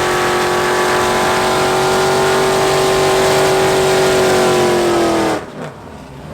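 Truck engine held at high, steady revs during a burnout. About five seconds in, the pitch sags and then drops away abruptly as the throttle is released.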